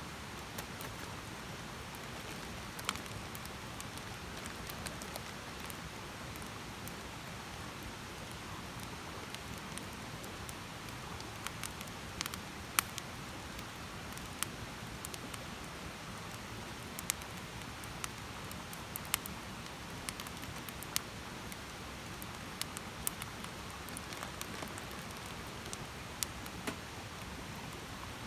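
Wood campfire burning: a steady hiss with irregular sharp crackles and pops, one of the loudest about 13 seconds in.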